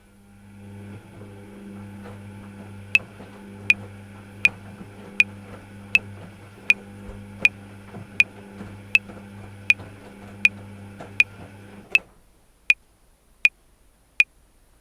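Metronome clicking at 80 bpm: sixteen even clicks, four bars of 4/4, starting about three seconds in. Under them a washing machine runs with a steady low hum that stops suddenly about twelve seconds in, leaving the last four clicks on their own.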